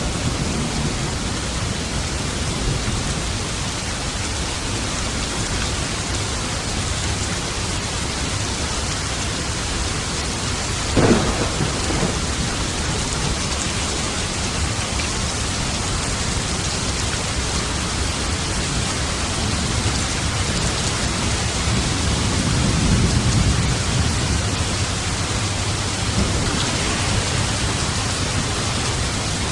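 Steady heavy rain hissing throughout a thunderstorm. A sharp thunderclap cracks about a third of the way in, and a low roll of thunder swells and fades later on.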